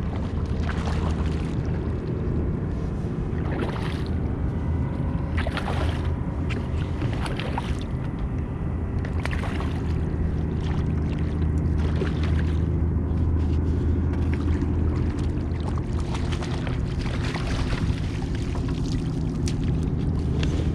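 Wind buffeting the microphone as a steady low rumble, with short splashes and knocks now and then as a hooked speckled trout is played and brought alongside the kayak.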